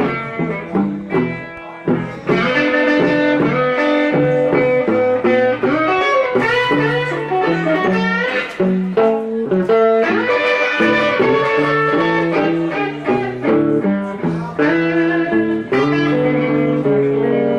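Electric blues band playing an instrumental break, an electric guitar taking the lead with bent notes over a steady bass line.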